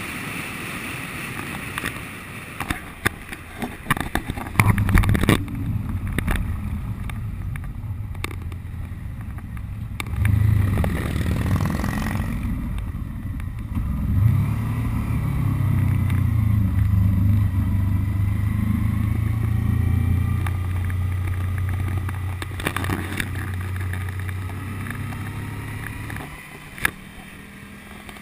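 Honda VFR800's V4 engine running under way, with wind noise on the microphone. A few knocks sound about three to five seconds in, then the engine note comes up strong and holds, shifting pitch in steps, before dropping away near the end.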